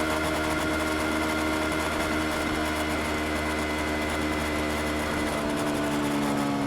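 Yamaha R25's parallel-twin engine running at steady revs, its pitch then falling slowly from about five seconds in as the revs drop.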